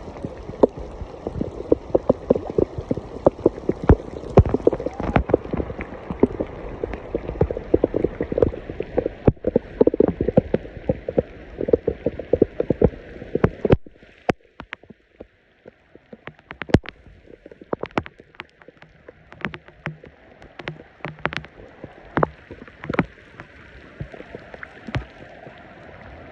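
Rain falling on and around a pool: a dense patter of drops hitting water and hard surfaces. About halfway through it drops off abruptly to scattered, separate drips.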